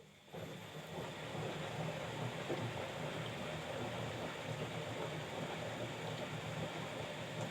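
Bosch Maxx 5 front-loading washing machine running: a steady mechanical noise that starts abruptly about a third of a second in.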